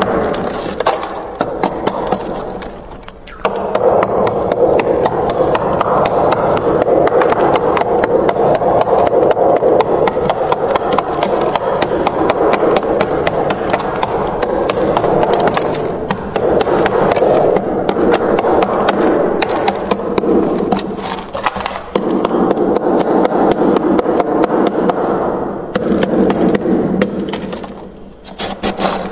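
Frost being scraped off the inside of a freezer: long runs of dense, rough, gritty scraping, broken by short pauses about 3, 16, 22 and 26 seconds in.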